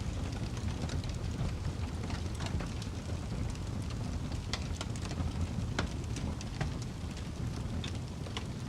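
Wood fire crackling: a steady low rumble of burning with scattered sharp pops at irregular intervals.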